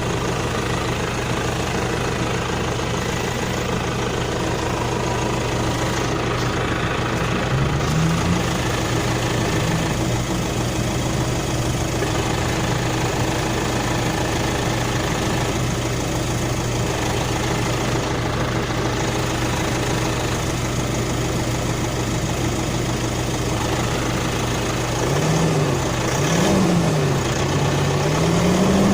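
Nissan NP300 pickup engine idling roughly, a steady running tone. About a quarter of the way in it is briefly revved, and near the end it is revved up and down a few times, climbing higher with each rise.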